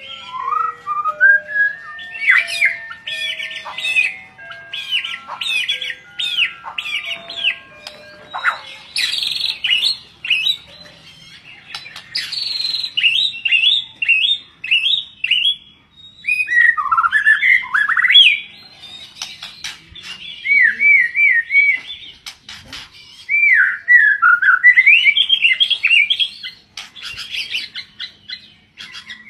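White-rumped shama (murai batu) singing a long, loud run of varied whistled phrases, swooping notes and quick chattering notes. During the first eight seconds or so a light melody of stepping, mostly descending notes plays underneath.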